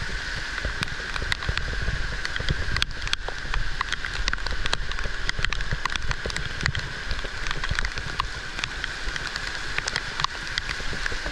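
Heavy rain falling, with many individual drops striking close by in a dense, steady patter.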